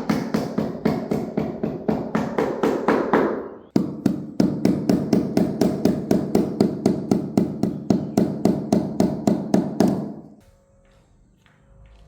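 Rapid, even hammer strikes, about four a second, in two runs broken by a short pause about four seconds in, stopping about ten seconds in.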